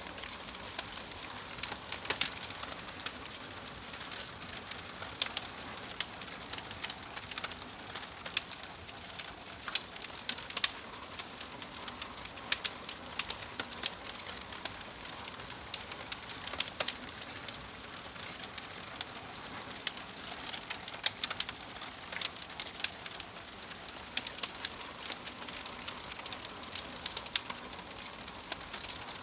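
Wood fire crackling in a fireplace: a steady soft hiss under frequent irregular sharp pops and snaps.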